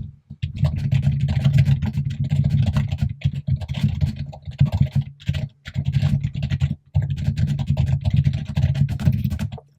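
Fast, continuous typing on a computer keyboard, close-miked, in long runs broken by a few brief pauses.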